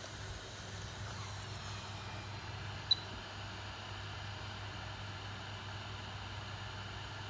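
Steady hiss with a low hum from electronics repair bench equipment running, broken once about three seconds in by a single short, sharp, high-pitched click.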